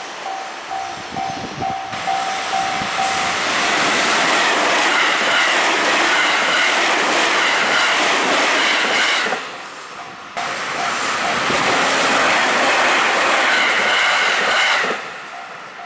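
Level crossing warning bells ding rapidly. Then an electric commuter train passes close by, its wheels clattering over the rail joints and drowning out the bells. About ten seconds in there is a cut to another passing train, and the crossing bells are heard again near the end.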